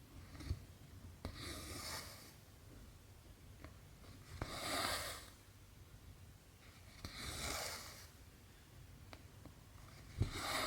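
Cotton embroidery thread drawn through cross-stitch fabric: a soft rasping swish about every three seconds, four times, with faint ticks of the needle between.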